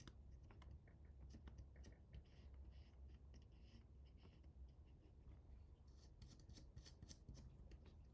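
Faint handling noises: scattered small clicks and scratchy rustles, busier near the end, over a low steady hum.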